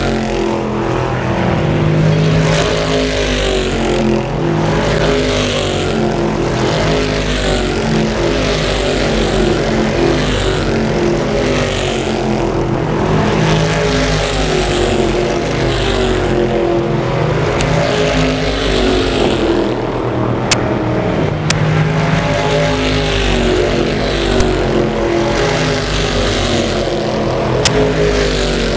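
Race car engines running at speed, several cars' engine notes overlapping and rising and falling in pitch as they sweep past one after another. A few sharp clicks sound in the last third.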